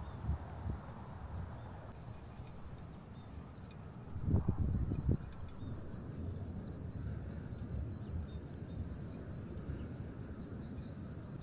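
Cricket chirping steadily in a high, even pulse of about five chirps a second. A short cluster of low thumps and rumbling, the loudest sound here, comes about four seconds in.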